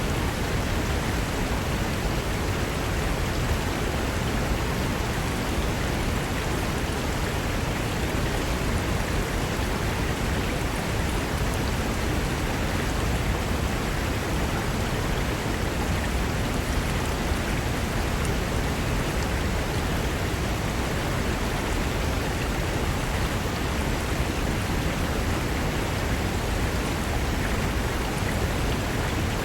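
Fast-flowing mountain river rushing over rocks: a steady, full rush of water without a break.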